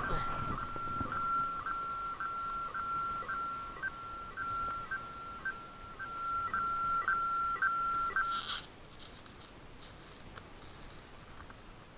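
Electronic beep tone from a Parrot Disco drone: one steady high tone broken by brief blips about twice a second. It stops suddenly about eight and a half seconds in with a short rustle, and faint handling noise follows.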